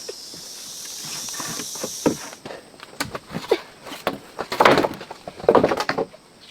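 Insects drone steadily at a high pitch, then cut off abruptly about two seconds in. After that come irregular rustles, crunches and knocks, the loudest two near the end, like movement through leaf litter and brush.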